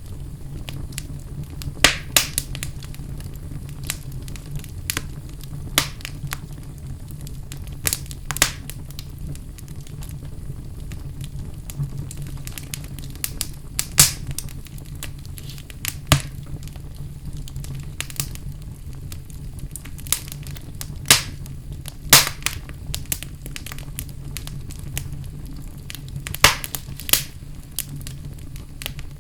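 Wood fire burning in a fireplace: a steady low rumble with sharp crackles and pops at irregular moments, about a dozen in all, the loudest two near the middle and about two-thirds in.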